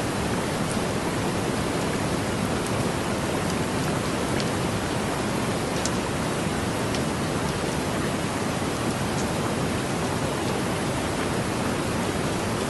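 Heavy rain falling steadily, an even wash of noise with a few faint higher drop ticks.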